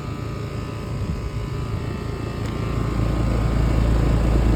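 Large outdoor air-conditioner unit running, a steady fan hum with a constant tone in it. A deep low rumble swells in about three seconds in and makes the sound louder toward the end.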